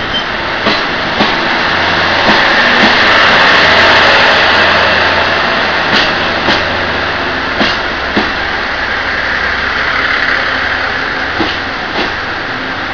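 Passenger train rolling slowly along a platform: a steady drone, with wheels clicking in pairs over rail joints as each car's bogies pass.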